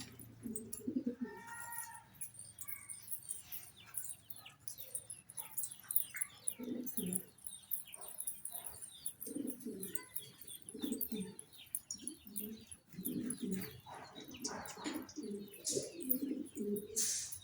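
Domestic pigeons cooing in repeated short, low phrases, with scattered higher chirps and clicks among them.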